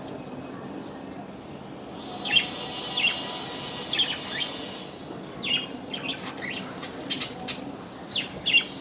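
Small birds chirping: short, sharp calls that start about two seconds in, a few spaced apart at first and then coming quicker and closer together in the second half, over a steady background hiss.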